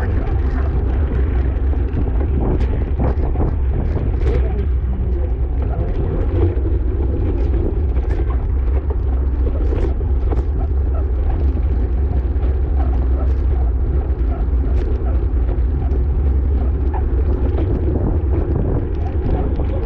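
Steady wind rumble on the microphone during a fast ride in a bicycle race, with scattered small clicks and ticks.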